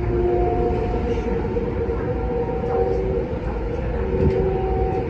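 Kinki Sharyo–Kawasaki electric train running at speed, heard from inside the car: a steady low rumble of wheels on track under a constant hum, with higher steady tones that come and go.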